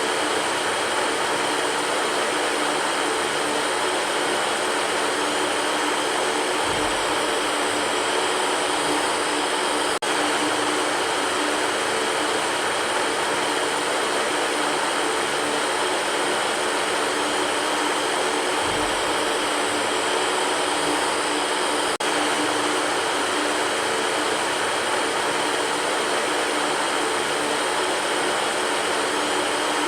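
Electric fan running steadily: an even rush of air with a faint motor hum underneath.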